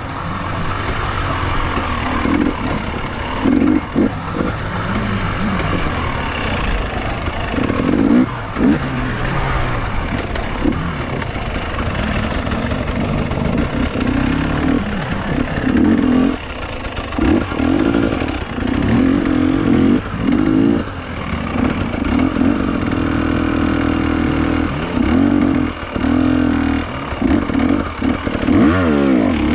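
KTM two-stroke enduro motorcycle ridden off-road, its engine revving up and dropping back again and again as the throttle is worked.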